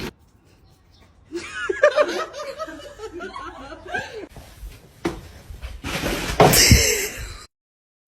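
A person laughing in a run of short bursts, then a louder, noisier sound that cuts off abruptly to silence near the end.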